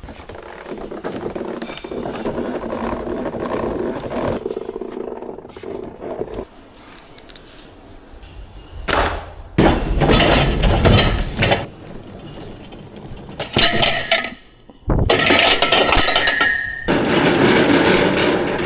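Clattering, rattling and clinking of equipment being handled and moved off a truck, in several loud stretches that start and stop abruptly.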